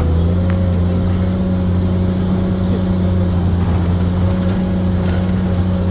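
Hydraulic excavator's diesel engine running at a steady, even speed.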